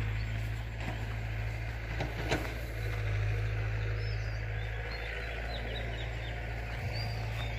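Earthmoving machine's engine running steadily with a low hum, while small birds chirp over it from about three seconds in. One short click comes a little after two seconds.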